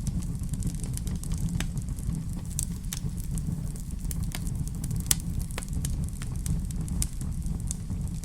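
Wood fire burning in a fireplace: frequent sharp crackles and pops over a steady low rumble, with one louder pop about five seconds in.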